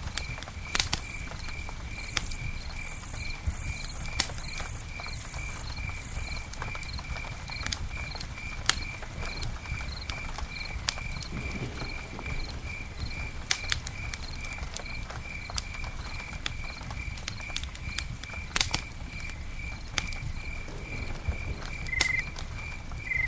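Campfire crackling, with scattered sharp pops over a low steady rumble, while an insect chirps on and on in an even high-pitched rhythm of about three chirps a second.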